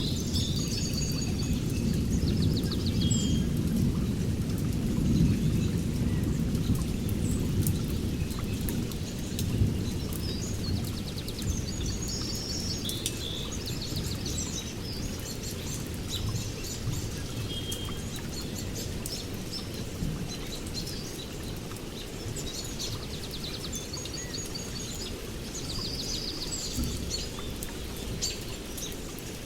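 Steady rain with a low thunder rumble that eases over the first several seconds, while birds call over it again and again with short high trills and chirps. Scattered sharp ticks of drops hitting nearby run through it.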